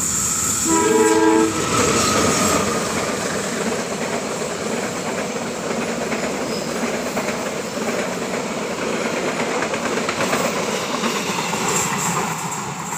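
Train horn sounding briefly about a second in, over the loud, steady running noise of a train passing close by, which eases off near the end.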